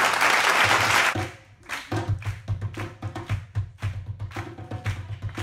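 Applause that cuts off about a second in. Then a group of djembe hand drums starts a fast rhythm of hand strikes, several a second.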